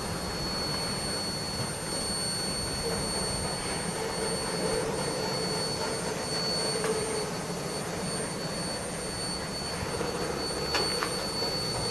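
Canadian Pacific rail train rolling slowly through a grade crossing: a steady rumble, with a faint hum in the middle and a brief higher sound near the end.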